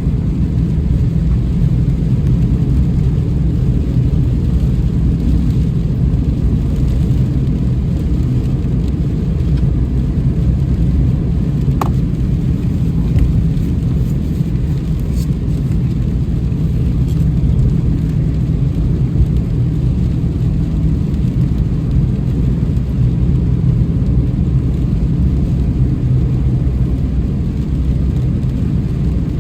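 Steady low rumble of a car driving in rain, with a few faint ticks.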